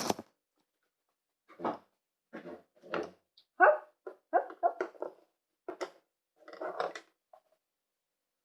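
A dog barking and yipping: about a dozen short barks in an uneven string, with dead silence between them.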